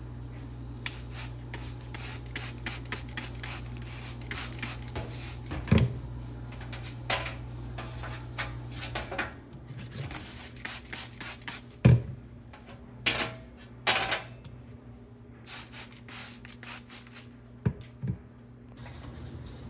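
Handling noises: rapid clicks, scrapes and rattles with a few sharp knocks, the loudest about twelve seconds in, over a steady low hum that fades out about halfway through.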